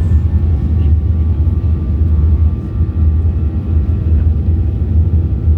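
Jet airliner cabin noise: the engines running with a steady deep rumble and a few faint, steady high whining tones.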